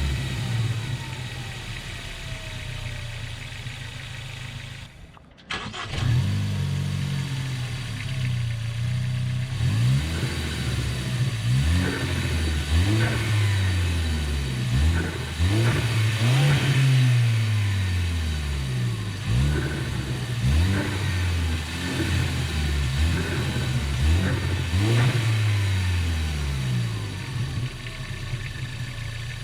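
Ford Focus ST's turbocharged four-cylinder engine, fitted with a Go Fast Bits DV+ diverter valve, blipped again and again, its revs rising and falling every couple of seconds. It runs steadily for the first few seconds, with a brief break about five seconds in.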